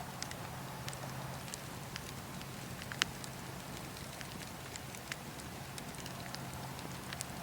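Wood campfire burning, a steady hiss broken by irregular sharp crackles and pops, the loudest pop a little under halfway through.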